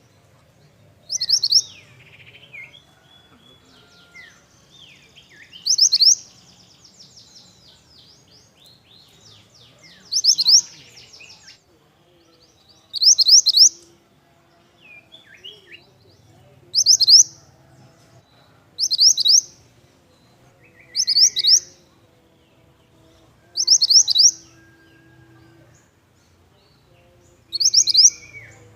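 Mantenan songbird calling repeatedly: about nine short, loud bursts, each a quick run of high notes, a few seconds apart. Fainter chirps and whistles are heard between the bursts.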